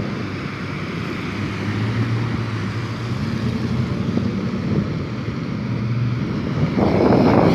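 Motorcycle engine running at an even pace while riding, with wind noise on the microphone. The wind grows louder near the end.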